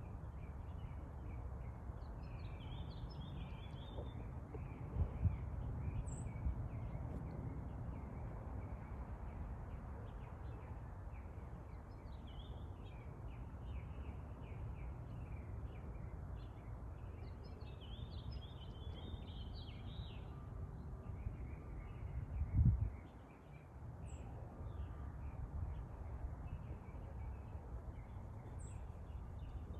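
Small birds chirping on and off over a steady low rumble, with a brief thump about five seconds in and again near the middle of the second half.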